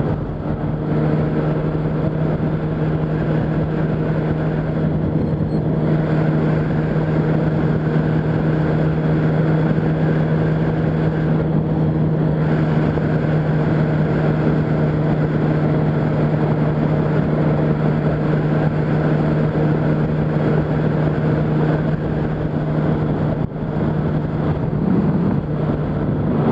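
Yamaha R1 inline-four engine running at a steady cruising speed, holding one constant pitch throughout, with a brief dip in level near the end.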